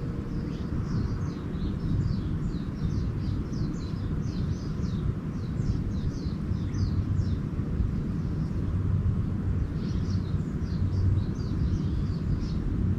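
Small songbirds chirping in quick series of short high notes, in two spells with a pause between them, over a steady low rumble of outdoor background noise.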